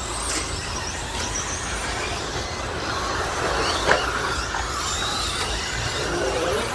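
Electric RC stadium trucks with 13.5-turn brushless motors racing on the track, their motors whining up and down in pitch as they accelerate and brake, over a steady rumble. A single sharp knock comes about four seconds in.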